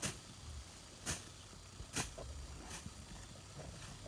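A series of sharp knocks, about one a second, four in all.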